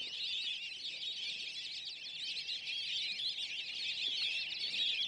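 A dense chorus of many birds chirping and calling at once, high-pitched and continuous.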